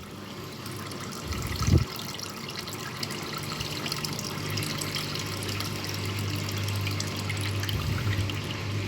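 Washing machine running a rinse cycle: water running and splashing inside it, with a steady low hum from the machine setting in about three seconds in. A single low thud a little under two seconds in.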